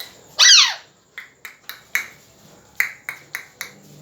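Pet parrot giving one loud call about half a second in that falls steeply in pitch. A string of short, sharp clicks follows, irregularly spaced.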